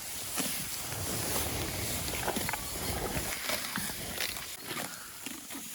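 Cattle in tall pasture grass, the grass rustling and crackling around them, with a low animal sound between about one and three seconds in.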